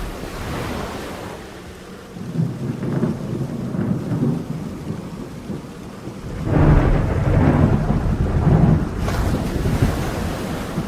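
Rain falling through a thunderstorm, with rolling thunder: a sudden clap at the start, then low rumbles that swell about two seconds in and again, loudest, from about six and a half to nine seconds.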